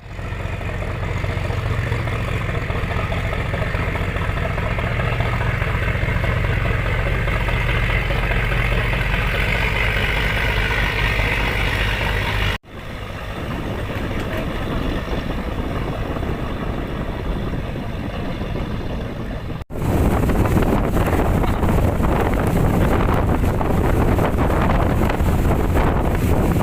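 Boat engine running steadily, broken twice by brief dropouts at edits. In the last part the sound turns into wind buffeting the microphone, with the engine beneath it.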